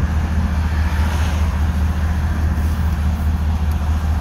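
1982 Checker Marathon's engine running steadily under way, heard from inside the cabin as a constant low drone with road noise.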